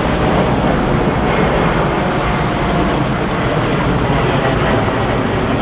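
Boeing 787-9 airliner's jet engines, a loud, steady rush of noise that holds level without any change in pitch.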